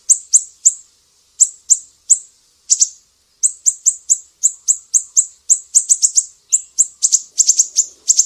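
Sumatran siri-siri bird calling: a rapid series of sharp, high, downward-sweeping chips, about three to four a second in uneven runs, crowding faster near the end.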